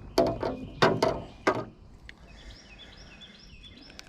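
Three loud, short sounds in quick succession in the first second and a half, then small birds chirping over and over in the background.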